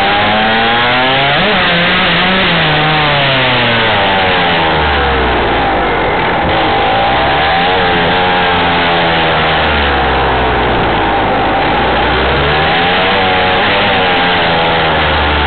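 Dirt bike engine, recorded close from the bike itself, its pitch rising and falling again and again as the throttle opens and closes, over a steady rush of wind and road noise.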